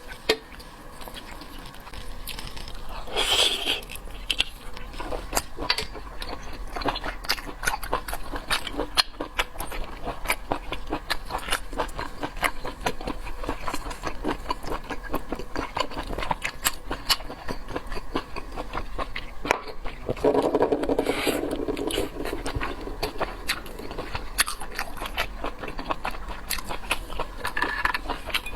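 Close-up mukbang eating sounds: a person chewing seafood, a dense run of crackling, crunchy clicks, with louder crunches about three seconds in and again around twenty seconds in.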